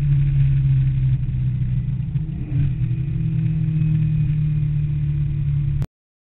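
Porsche 911's air-cooled 3.2-litre flat-six running hard under load, heard from inside the cabin. The note sags and climbs back about two and a half seconds in, then holds steady until the sound cuts off abruptly near the end.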